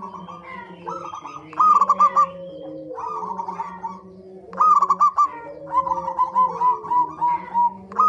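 Zebra doves (perkutut) cooing: repeated short phrases of quick, bubbling notes, with one longer run of notes late on, over lower, softer cooing tones.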